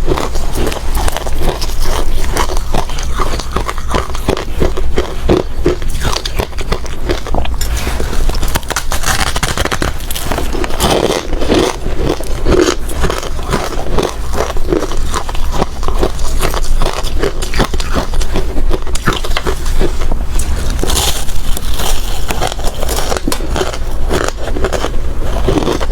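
A person biting and chewing hard ice close to the microphone: a dense, continuous run of loud crackling crunches.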